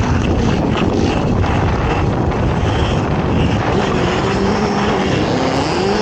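Racing ATV engine running hard under load, its pitch falling and rising as the throttle changes, with a lot of noise around it.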